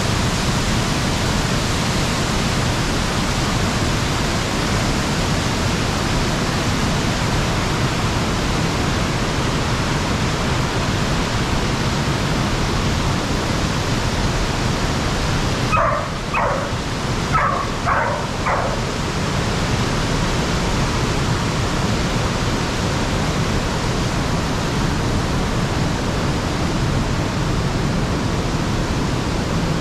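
Waterfall rushing steadily. About sixteen seconds in, five short, sharp calls cut through the roar over about three seconds.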